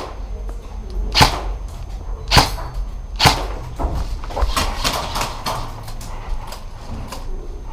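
Airsoft guns firing single shots: three sharp cracks about a second apart, then a run of softer clicks and rustling.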